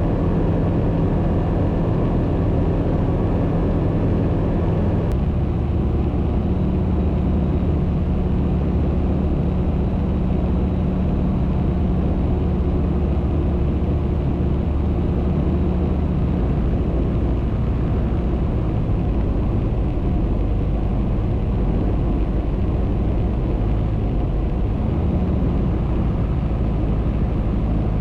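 Single-engine light aircraft's piston engine and propeller droning steadily in flight, heard from inside the cockpit. The tone shifts slightly about five seconds in.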